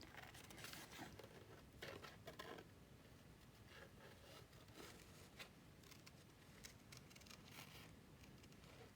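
Faint, irregular snips of small scissors fussy cutting around a stamped image in cardstock.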